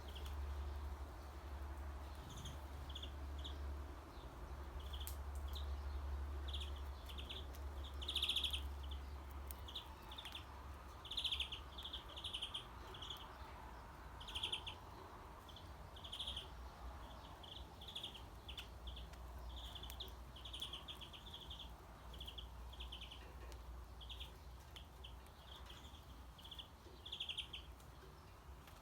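Small birds chirping: short, high chirps repeated in irregular runs, some louder than others, over a low steady hum that is stronger for the first several seconds.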